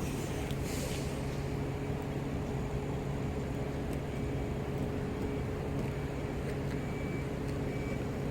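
A vehicle engine running at a steady speed: an even, unchanging low hum.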